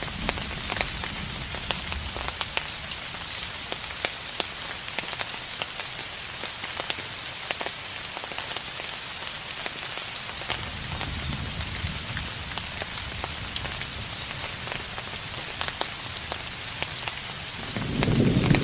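Steady rain falling, with many individual drops ticking close by. Distant thunder rumbles low, faintly about halfway through and louder near the end.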